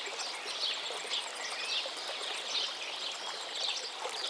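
Many small birds chirping in quick, repeated short notes over a steady outdoor hiss.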